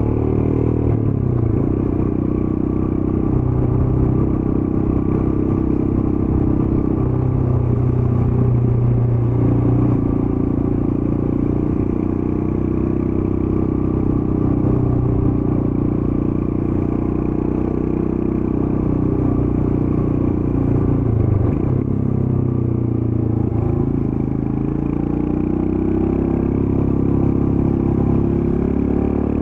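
Royal Enfield Scram 411's air-cooled single-cylinder engine running through its stock exhaust while ridden at an easy pace. The engine note rises and falls with the throttle, drops about two-thirds of the way through, then climbs again near the end.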